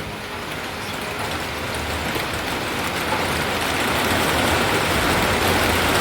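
Heavy rain falling during a thunderstorm, a dense even hiss that grows steadily louder.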